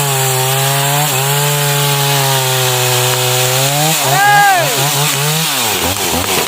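Stihl MS 381 two-stroke chainsaw cutting into a large sengon trunk, the engine held at a steady pitch under load. About four seconds in it revs up briefly and falls back, then drops off in pitch near the end.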